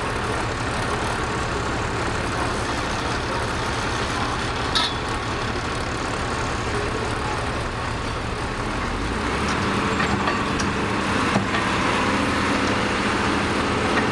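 Heavy diesel machinery engine running steadily. It gets louder and fuller about nine seconds in. A sharp click comes near five seconds, and a few light knocks near the end.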